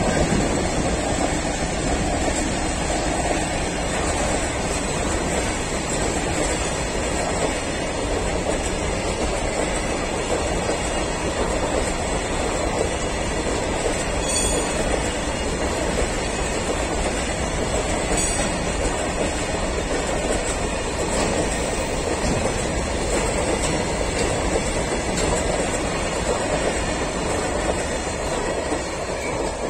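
Freight train of goods wagons rolling past, a steady rumble of wheels on rails that begins to fade near the end as the last wagons clear.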